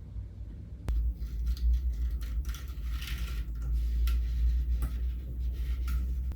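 Small hard craft pieces being handled: a sharp click about a second in, then scattered light clicks, taps and rustling, over a steady low hum.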